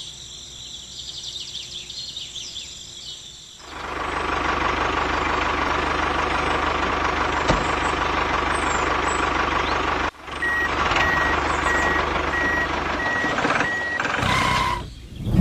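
A vehicle engine starts running loudly about three and a half seconds in, cuts out for a moment near ten seconds, then runs on under a reversing alarm beeping in a steady series of short tones.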